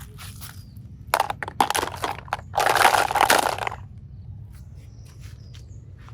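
Slime being squeezed and pressed: a run of small crackles, then a crunching about a second long near the middle.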